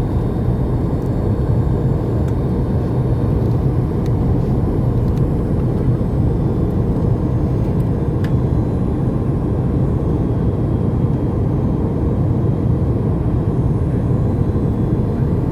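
Steady cabin drone of a Boeing 737 MAX 8 airliner in flight on its approach to land: engine and airflow noise at an even level.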